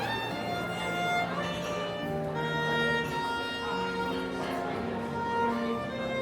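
Live violin playing a melody of long held notes over a sustained lower line.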